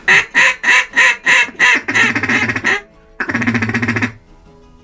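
Hand-blown duck call: a run of about seven loud quacks, then a rapid chatter, and after a short pause one longer drawn-out note.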